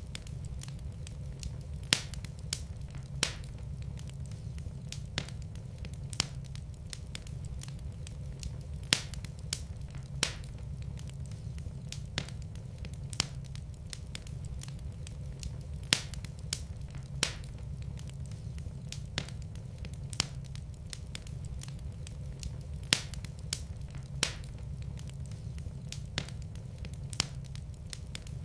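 Wood fire crackling in a fireplace: a low steady rumble of the flames with sharp pops at irregular intervals, roughly one every second or two.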